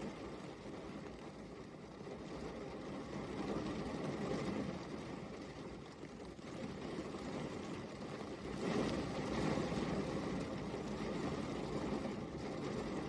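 Steady rain, an even rushing noise that grows a little louder about eight and a half seconds in.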